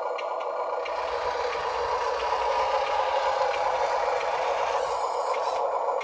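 Huina 1582 RC dump truck's sound kit playing a simulated truck engine through its small onboard speaker. The sound is steady and thin, with no deep bass.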